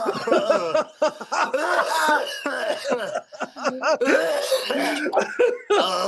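A person making loud wordless vocal outbursts: short breathy bursts mixed with rising and falling pitched cries. These are the ecstatic noises of someone 'drunk in the Spirit' during charismatic prayer.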